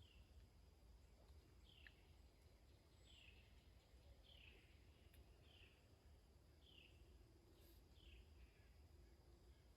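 A bird calling faintly, a steady series of short downslurred notes repeated about once a second over a low background hum.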